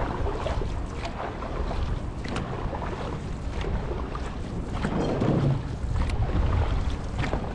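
Dragon boat crew paddling in unison, paddle blades striking and pulling through the water about once every second and a bit, over a steady low rumble of wind on the microphone.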